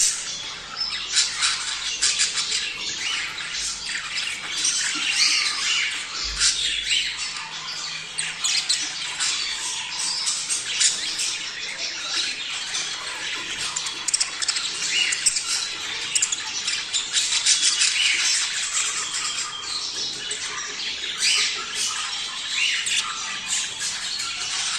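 A flock of budgerigars chattering, a continuous dense mix of many overlapping short calls and squawks.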